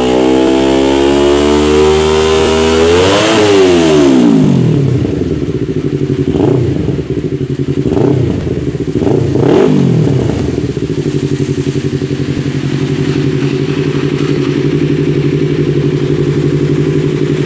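Yamaha R25's 250 cc parallel-twin engine breathing through a Scorpion carbon full-system exhaust. It revs up to a peak about three seconds in and drops back to idle. It is then blipped three times and left idling steadily.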